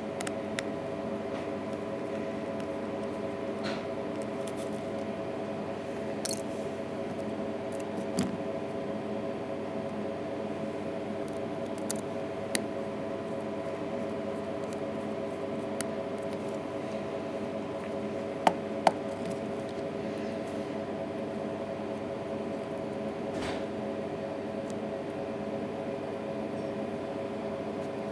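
Occasional small clicks and taps of tools and parts being handled during an iPhone 3GS teardown, two sharp ones close together about two-thirds of the way through, over a steady hum.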